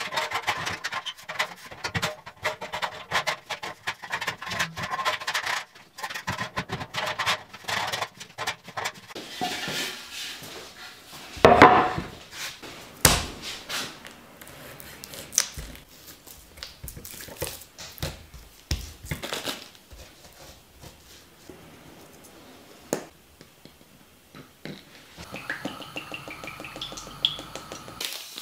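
Irregular knocking, scraping and clattering of hand work, busiest in the first ten seconds, with one loud knock about twelve seconds in and sparser clicks after.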